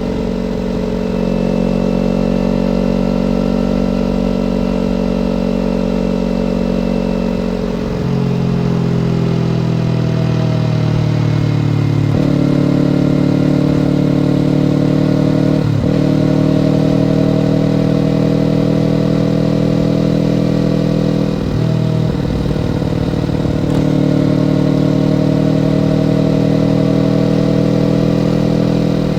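Kawasaki Ninja parallel-twin motorcycle engine running under way. The engine note falls slowly about eight seconds in. Later it briefly dips and climbs again several times.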